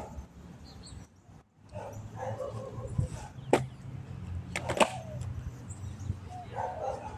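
A dog whining in short, pitched sounds, with two sharp clicks midway, over a steady low hum.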